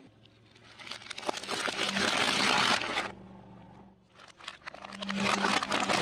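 Crunchy food being crushed, crackling and crunching in two long bursts, the second starting about four and a half seconds in.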